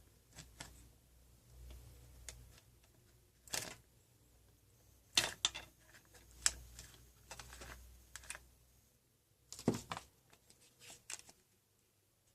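Scattered light clicks and knocks, a dozen or so at irregular intervals, over a faint low hum that dies away about nine seconds in.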